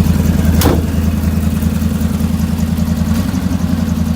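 RV engine running steadily with a low hum, and a single sharp click about half a second in.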